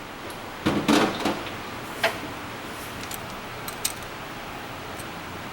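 Workshop handling noises: a short scraping clatter about a second in, then a sharp click and a few faint ticks over a steady low hiss.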